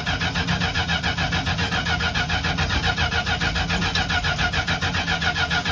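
The engine of a 1975 Winnebago Brave cranking on its starter motor in a rapid, even rhythm without catching, on a cold start after years of sitting, as it tries to draw fuel through a hose rigged from a gas tank to the carburettor.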